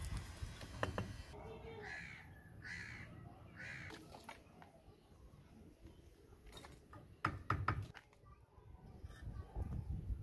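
A bird calling three times, evenly spaced, in the first half. Later come a few sharp knocks of a mason's trowel tapping bricks being laid in mortar.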